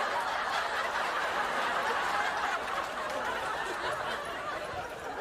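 Breathy, stifled snickering held under the breath, running on without a clear break.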